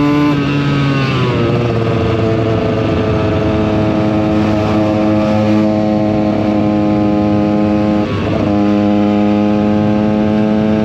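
KTM EXC 125's single-cylinder two-stroke engine running under way. Its note falls about a second in, holds steady, then breaks off briefly about eight seconds in and picks up again at a lower pitch.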